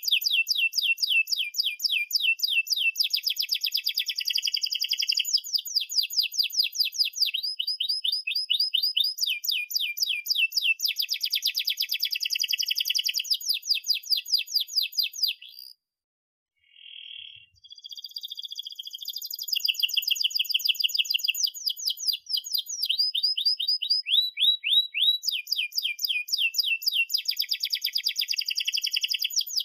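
Domestic canary singing a long song of fast trills and rolls, each run a rapid string of repeated chirps changing pitch from phrase to phrase. The song breaks off for about two seconds a little past halfway, then starts again.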